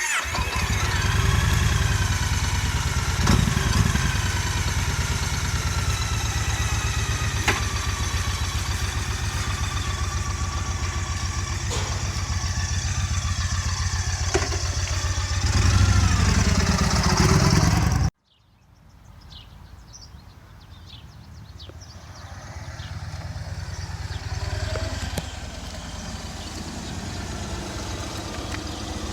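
2008 Yamaha Raider 1900's large V-twin engine running loud, revved up briefly near the start and again about two-thirds of the way through. It cuts off abruptly, then a quieter engine sound builds back up.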